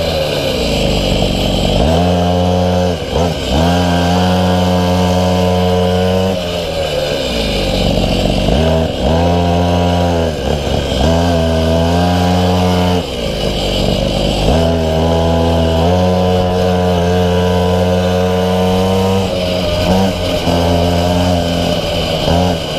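Minimoto (pocket bike) small two-stroke engine running hard, recorded on board: the revs hold high and steady for stretches, then drop off sharply and climb back several times, about every two to four seconds.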